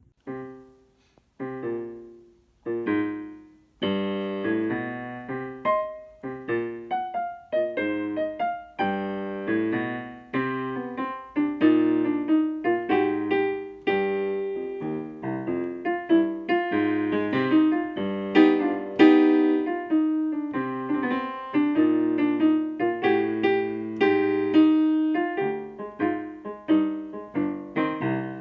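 Solo piano music. It opens with three or four separate chords, each left to ring out, then settles into a continuous flowing melody over sustained chords.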